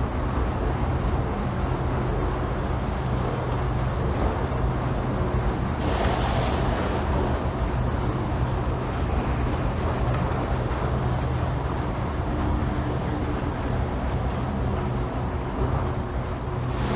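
Automated airport people-mover train running between stations, heard from inside the car: a steady rumble with a constant low hum.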